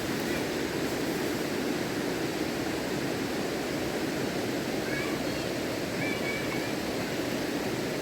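Fast river water rushing steadily, with a few faint short high chirps about five and six seconds in.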